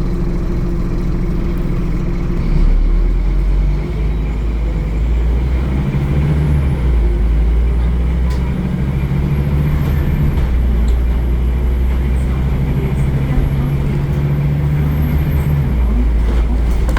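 Scania N230UD Omnicity bus's five-cylinder diesel engine running under way, its note stepping up and down around four and six seconds in, holding steady for a long stretch, then dropping near the end.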